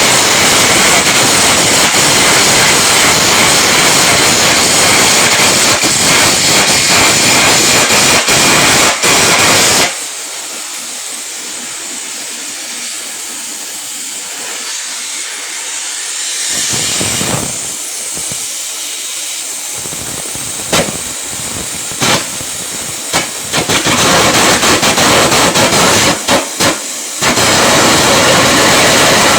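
Electric arc welding: the arc's loud, steady crackling hiss breaks off about ten seconds in. A quieter hiss with short, scattered crackles follows, and the loud arc noise returns near the end.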